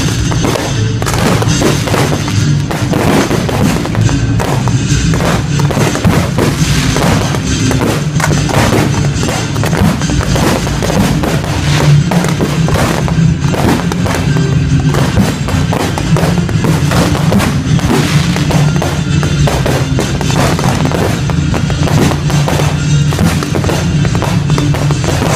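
Display fireworks going off in close succession, with many bangs and crackles, over loud continuous music.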